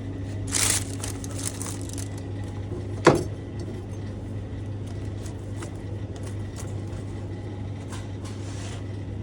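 Steady low hum, like a running kitchen appliance, with a short hiss about half a second in, one sharp knock about three seconds in, and light scattered clicks of things being handled.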